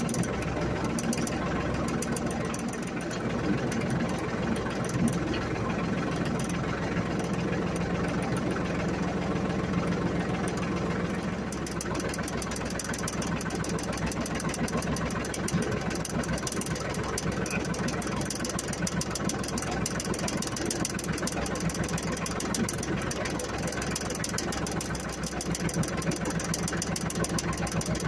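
Ford 1720 compact tractor's three-cylinder diesel engine running steadily at idle, with a knocking diesel clatter; its sound changes a little about halfway through.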